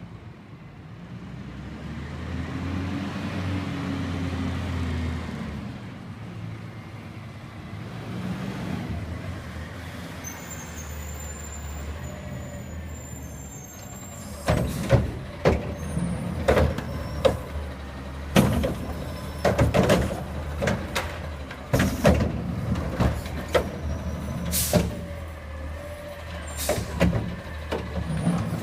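Garbage truck's diesel engine running and building up as the truck pulls in, with a thin high-pitched brake squeal. From about halfway there is a long run of loud bangs and knocks as the yard waste is loaded into the truck.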